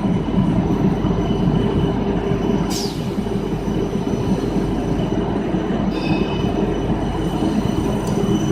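PVC/WPC foam sheet extrusion line running: a steady, loud machine drone with hum tones, broken twice by a brief high squeak, about three seconds in and again about six seconds in.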